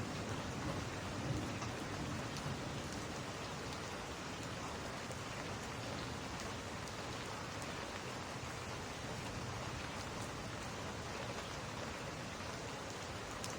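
Steady rain falling, with a low rumble of distant thunder that fades out over the first couple of seconds.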